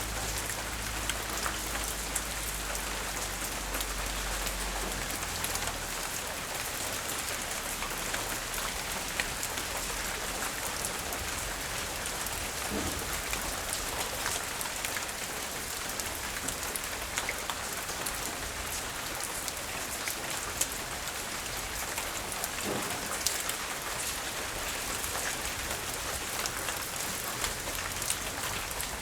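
Steady light rain falling on surfaces, a constant hiss with scattered individual drops ticking through it. A low rumble sits under it for about the first five seconds, then fades out.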